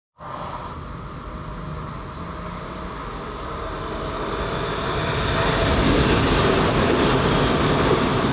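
A train approaching on the line, its rumble growing louder over the first five seconds and then holding steady as it runs close by.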